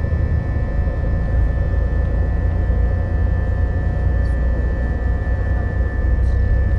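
Passenger airplane cabin ambience: a steady, loud low drone of the jet engines and airflow, with a faint steady whine held above it.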